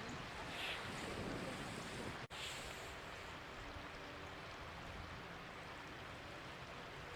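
Steady rushing noise of the flooded Meramec River, cut off for an instant just over two seconds in.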